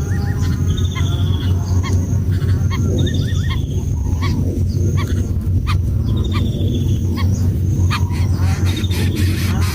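Birds calling: short high calls repeated every second or two, some trilled and some briefly gliding, over a steady low hum.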